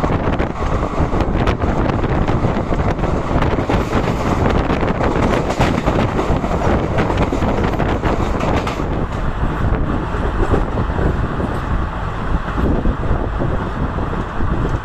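Passenger train running along the track, a steady rumble and rattle with many short clicks, with wind buffeting the microphone. The high hiss drops away about nine seconds in.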